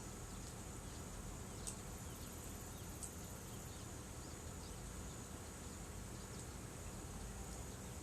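Steady high-pitched chirring of insects, with a few faint pops about two and three seconds in.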